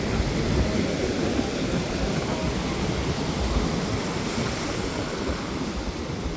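Ocean surf washing onto the beach, a steady noise that is heaviest in the low end.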